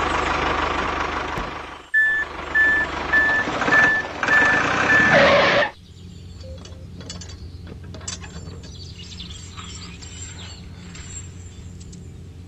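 Vehicle engine noise, then a reversing alarm beeping about twice a second over the engine for a few seconds. It cuts off suddenly, leaving a faint low hum.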